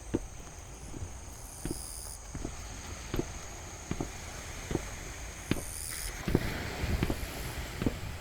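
Footsteps walking at a steady pace, about one step every three-quarters of a second, over the steady low wash of sea waves; the surf grows louder about six seconds in.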